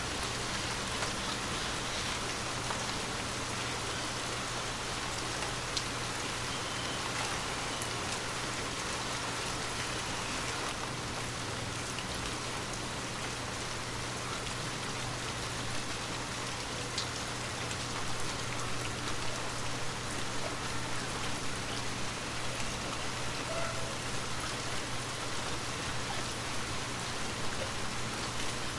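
Light, steady rain falling on a window, an even patter with the odd sharper drop ticking.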